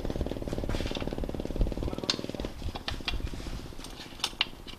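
A motocross bike engine idling with a fast, even beat, growing quieter about halfway through, with a few sharp metallic clinks of tools on the bike in the second half.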